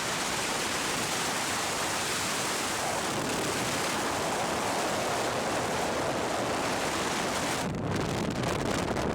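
Steady, loud rushing noise of storm weather, with wind buffeting the microphone and water moving. The sound shifts briefly lower just before the end.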